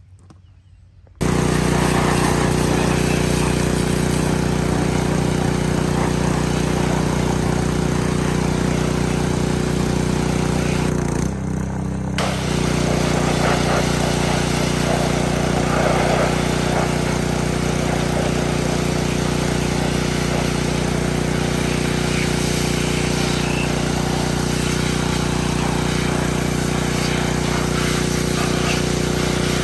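Pressure washer running steadily, its motor and pump making a loud even hum over the hiss of the spray, starting about a second in. Around eleven seconds in it briefly drops and changes pitch, then runs on as before.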